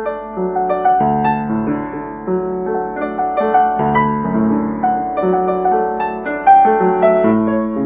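Background piano music: a gentle melody of many separate notes over a steady low bass line.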